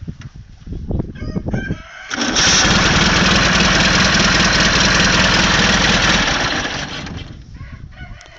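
Ural motorcycle's flat-twin engine running with uneven thumps, then revved hard for about four seconds before dropping back toward idle.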